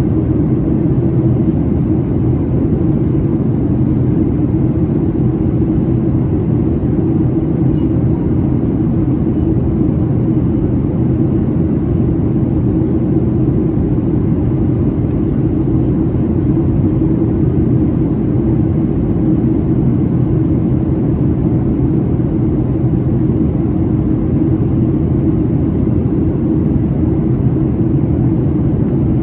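Steady in-flight cabin noise of a Boeing 737-700 in descent: the drone of its CFM56 jet engines and rushing airflow, with a steady low hum, unchanging throughout.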